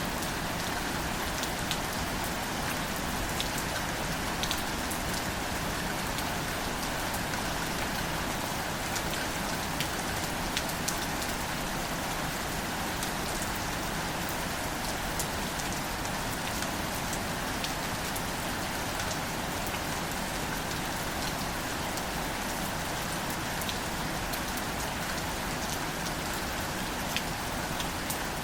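Steady light rain falling on plants and leaves, a continuous patter with many fine drop ticks.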